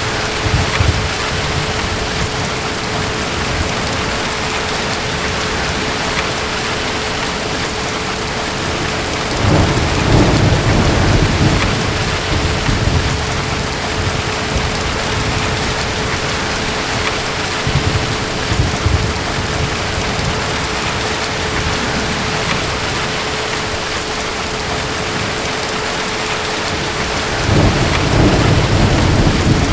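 Steady heavy rain with distant thunder rumbling low, swelling about ten seconds in and again near the end, with a fainter rumble in between.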